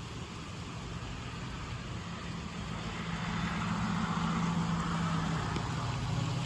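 Steady rain hiss with a motor vehicle's low engine hum that swells for a few seconds through the middle, as of a car going by on the wet road.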